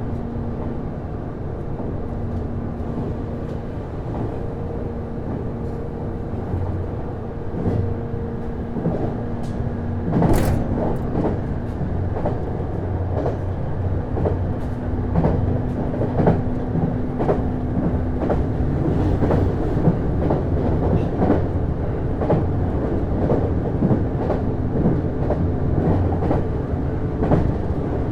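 JR East HB-E210 series hybrid diesel railcar running, heard from inside the car: a steady drive hum with a held tone, and wheels clicking over rail joints. The clicks come more often in the second half, with one sharp clack about ten seconds in.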